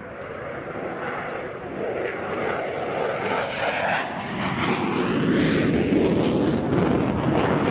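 Fighter jet engine noise, growing louder about halfway through, with a ragged crackle.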